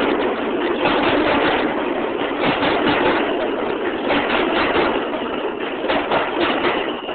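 Alstom R160A subway train running, with a steady rumble of wheels on rail and frequent rapid clicks. A faint high whine comes in near the end.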